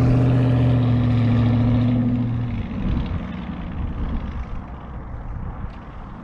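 Dodge Charger Hemi V8 with a mid-muffler delete, its exhaust holding a loud, steady note for about two and a half seconds, then fading away as the car drives off.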